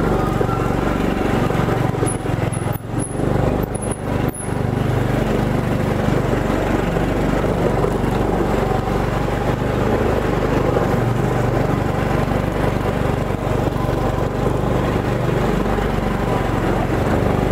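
Motorbike engine running steadily in first gear while climbing a steep slope, with a brief dip in level a few seconds in.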